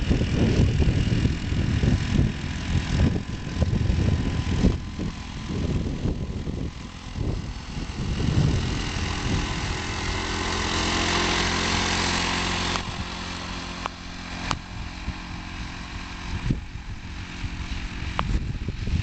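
Engine of a homemade one-wheel tractor running. It sounds rough and uneven for the first half, then settles into a steady, even note about halfway through.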